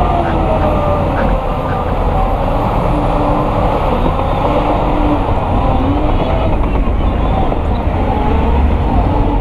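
Heavy diesel earthmoving machinery working, a deep steady rumble with engine pitch drifting up and down as the load changes.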